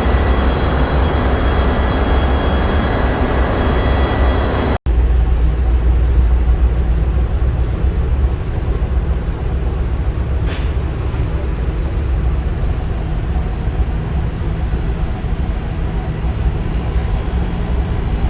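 Generator engine running steadily, a loud deep rumble with a haze of mechanical noise above it. About five seconds in the sound breaks off for an instant and resumes without the high steady whining tones heard before.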